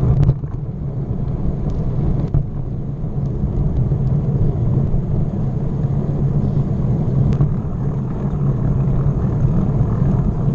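Steady low rumble of riding a bicycle: wind on the microphone and road noise, with a few faint clicks.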